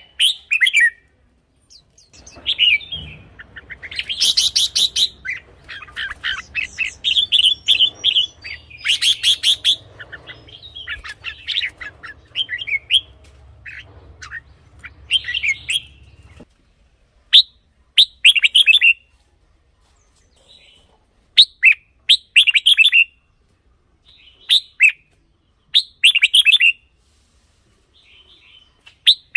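Red-whiskered bulbul singing: a fast, almost unbroken run of bright warbled phrases through the first half, then short separate phrases every second or two.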